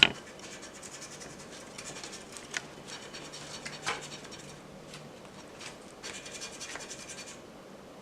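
Texas Lottery Lucky Dog scratch-off ticket being scratched in a rapid run of short strokes, with a brief pause about five seconds in. A sharp tap right at the start is the loudest moment.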